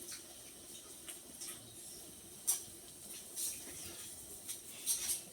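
Quiet eating sounds at a table: soft mouth and utensil clicks, with one sharper click about two and a half seconds in.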